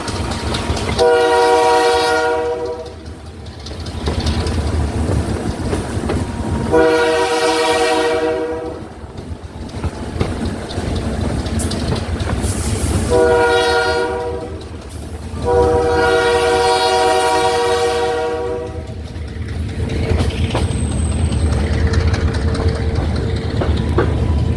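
Locomotive air horn sounding four blasts, long, long, short, long, the grade-crossing signal, over the steady rumble and wheel clatter of the moving train.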